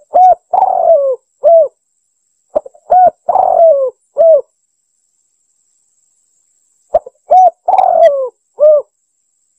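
Spotted dove cooing: three phrases, each a few short hooting notes around one longer rolling coo, with dead silence between the phrases.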